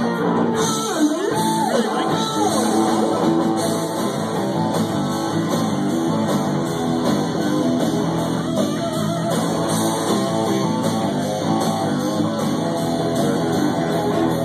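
Live rock band playing an instrumental break: a guitar lead with notes that bend in pitch, over a steady backing with drums.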